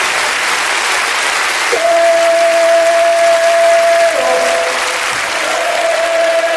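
Live concert audience applauding, with a voice holding a long note over the clapping about two seconds in, which steps down to a lower pitch, followed by a second long held note that falls near the end.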